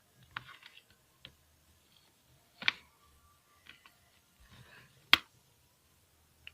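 Toy packaging being handled during unboxing: a scattered run of sharp clicks and snaps, with two louder snaps near the middle and about five seconds in.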